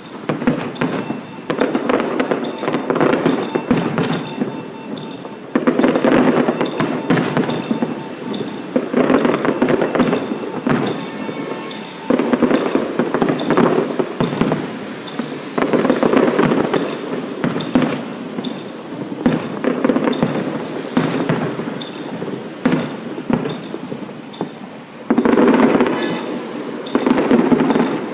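Fireworks going off: dense crackling and bangs in loud spells that start suddenly every few seconds, with quieter crackling between.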